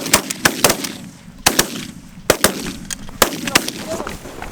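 A ragged volley of shotgun blasts from several hunters firing together at geese, about ten shots in quick succession, some nearly on top of each other, over the first four seconds.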